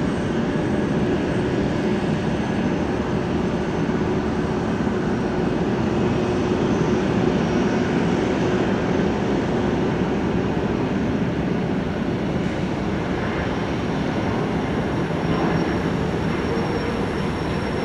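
Jet aircraft engines running, a steady drone with a faint held whine, as a jet takes off or lands on the runway.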